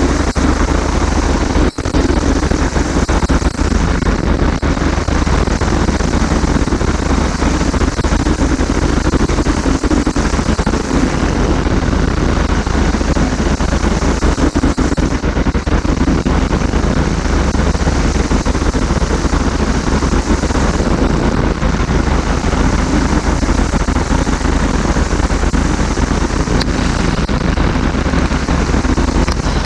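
Flexwing microlight trike's engine running steadily, a loud continuous drone under a dense rushing noise, with one brief dropout about two seconds in.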